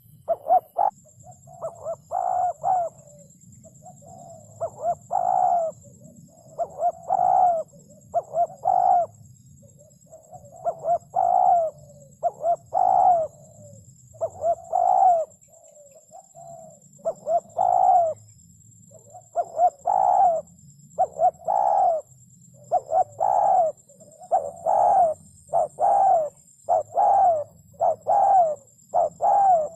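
Spotted dove cooing: short coo notes repeated in clusters of two to four, one cluster every second or two.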